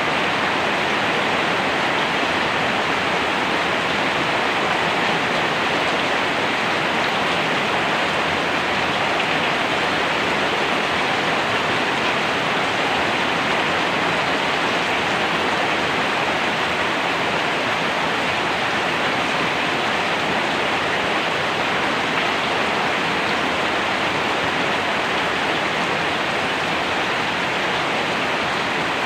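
Steady, even rain, a continuous hiss of falling rain without breaks or thunder.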